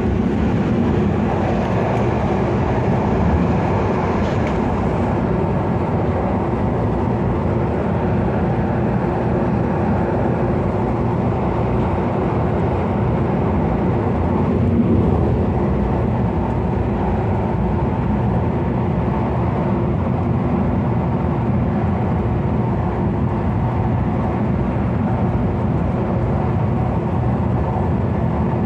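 Steady running noise inside a moving MTR Airport Express CAF-built train. A faint high hiss in the first few seconds dies away.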